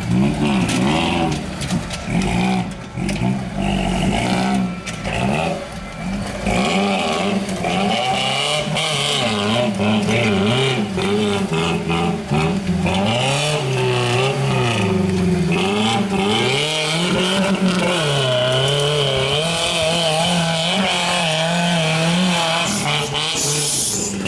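Off-road rock-racing truck's engine revving up and down over and over as it works through the rocks, its pitch rising and falling every second or two.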